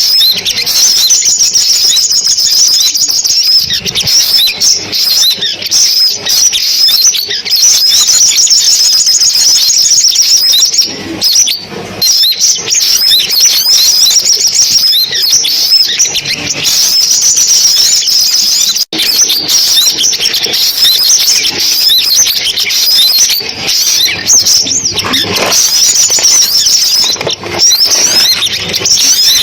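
Sunbird calls for a trap lure: a dense, continuous run of rapid, high-pitched chirps and trills, with a split-second break about two-thirds through.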